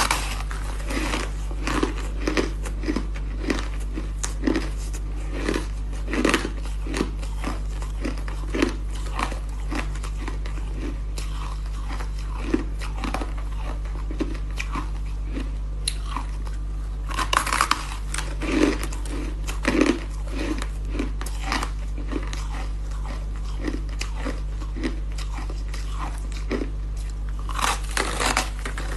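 Ice being bitten and chewed close to the microphone: a steady run of sharp crunches, about one or two a second, growing louder and denser in a few clusters, over a constant low hum.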